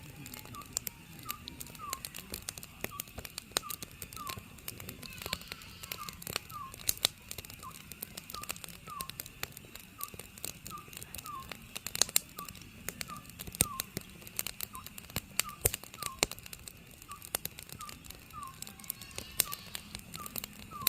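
Oriental scops owl calling, short notes repeated steadily at about one and a half a second, over a wood fire crackling and popping with irregular sharp snaps.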